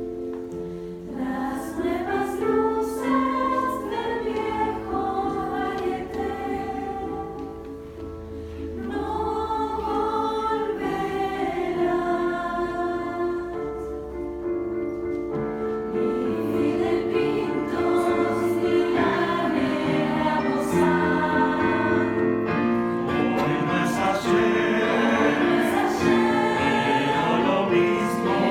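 Youth choir singing in parts, holding long notes, growing louder about halfway through.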